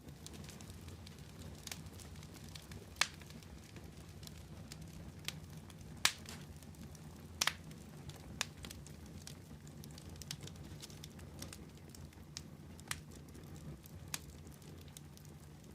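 Wood fire crackling: irregular sharp pops and snaps over a steady low rumble. The loudest pops come about three, six and seven and a half seconds in.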